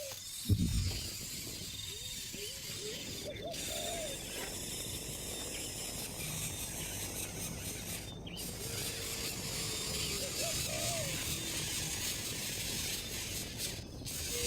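Short, repeated rising-and-falling bird calls over a steady raspy, insect-like hiss, with one dull thump about half a second in.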